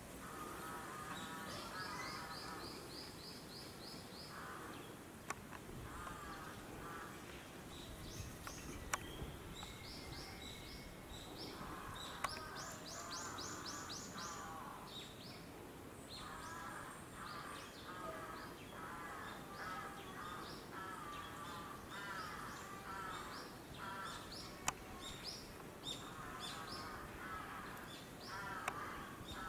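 Wild birds calling: a lower call repeated again and again, mixed with a small bird's quick runs of high notes. A few sharp clicks come and go.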